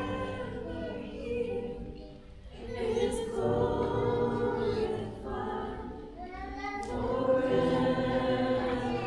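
A congregation singing a slow worship song together, long held notes in phrases with short breaths between them.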